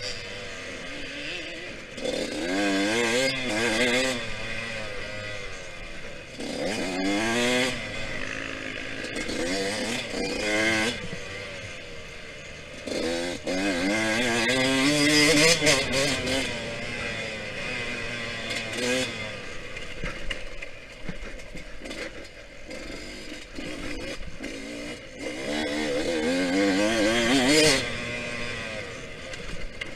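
Yamaha YZ125X two-stroke single-cylinder engine under hard riding, its revs climbing and falling off again and again every second or two. The loudest rev-ups come about halfway through and near the end.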